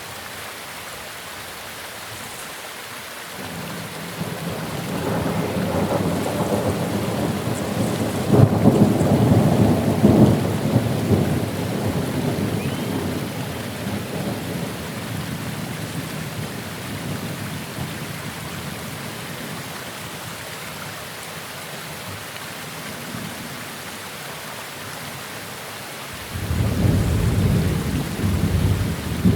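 Steady rain with rolls of thunder: a long rumble builds a few seconds in, peaks with a sharp crack about eight seconds in and slowly dies away, then a second rumble breaks in near the end.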